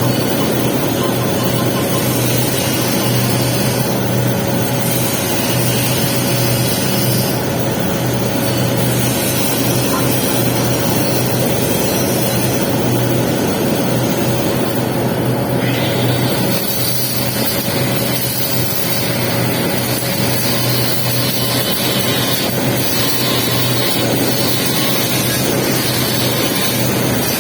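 Welding arc on a pipe capping pass, hissing and crackling steadily, over a steady low hum.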